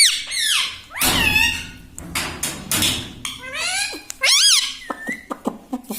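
Ringneck parrot making short, high, wavering squawks and chirps that swoop up and down in pitch. There is a bout near the start and another about four seconds in, with a scratchy rustling noise between them.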